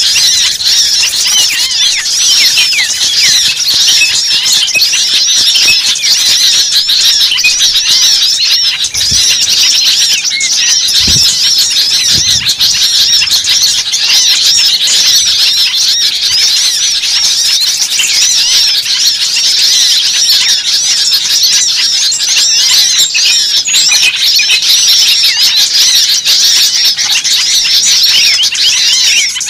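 Bird-lure recording: a dense, unbroken chorus of many small birds giving rapid, high, squeaky chirps and calls, agitated and noisy.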